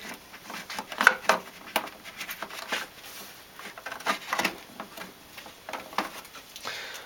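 Irregular small clicks, taps and light knocks of small model parts being handled and fitted into place, as a smoke-generator unit is set into a model ship.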